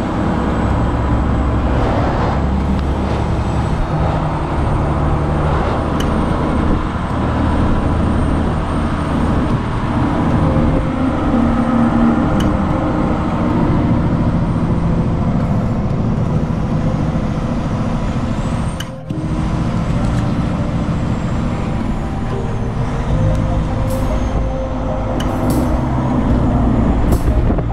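Truck running on the road, a steady low engine hum whose pitch shifts in steps every few seconds.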